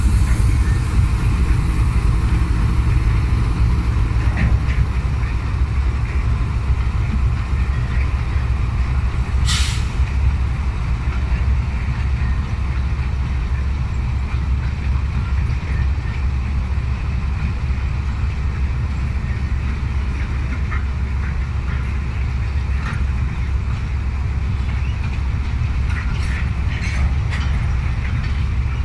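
GE GEU-40 (ES43ACi) diesel-electric locomotive with its 12-cylinder GEVO12 engine running, a heavy steady rumble. A short hiss sounds about ten seconds in, and a few light clicks come near the end.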